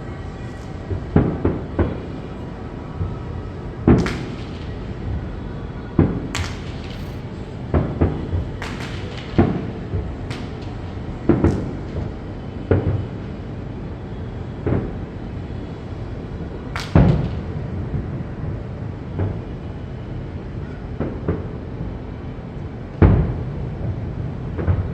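Aerial fireworks shells bursting: irregular sharp bangs, more than a dozen, each trailing off in a short echo, over a steady background noise.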